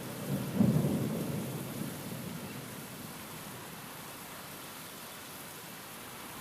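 Steady rainfall with a roll of thunder that breaks about half a second in and rumbles away over the next two seconds.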